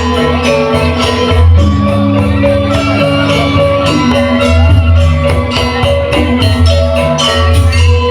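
Balinese gamelan music playing for the dance: metallophones struck in rapid, dense patterns over held low gong-like tones, without a break.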